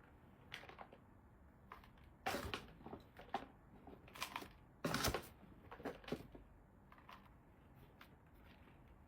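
Scattered light knocks, taps and rustles of objects being handled, loudest a little past two seconds in and again around five seconds in.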